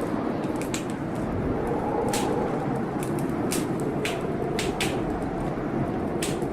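Steady howl of blizzard wind outside a window, with a wood fire crackling: scattered sharp pops every second or so.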